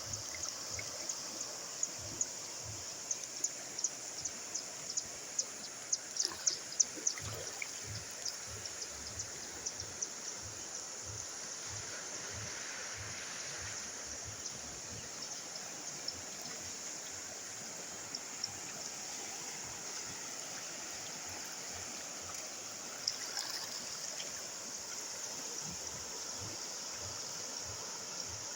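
River water rushing steadily after a tropical storm, with many small sharp clicks over the flow, thickest in the first eight seconds or so.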